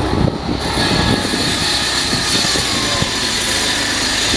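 Electric locomotive of a passenger train running with a loud, steady roar that swells about half a second in, with a high hiss over it.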